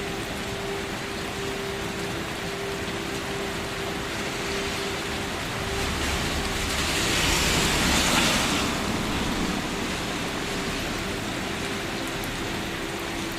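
Steady rain hissing, with a louder rushing swell about six seconds in that rises to a peak and fades out again within three or four seconds. A faint steady low hum runs underneath.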